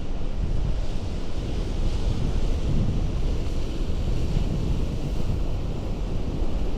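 Sea surf washing against a rocky shore, a steady rushing noise, with wind buffeting the microphone and adding a deep rumble.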